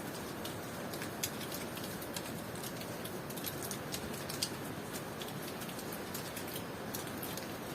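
Steady tropical rain falling, a continuous hiss with many scattered sharp drips and drop impacts ticking through it.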